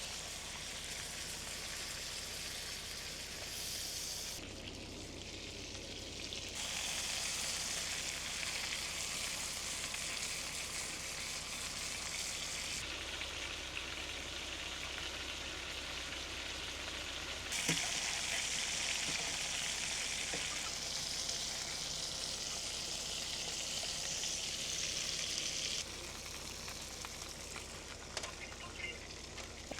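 Chicken breast sizzling as it fries in a pot. It is a steady hiss that jumps abruptly louder or softer several times, over a steady low hum.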